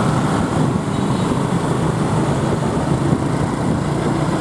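Motorbike engine running steadily while riding through city traffic, heard from the pillion seat, with road and traffic noise around it.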